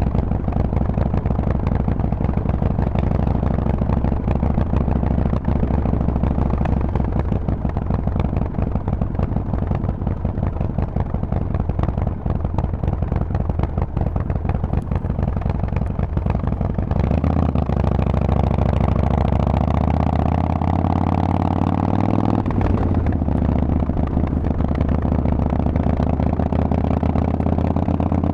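Harley-Davidson Forty-Eight's air-cooled V-twin running through a Vance & Hines exhaust, steady at first, then rising in pitch as it accelerates a little over halfway through, with a brief dip before it settles at a higher, steady note.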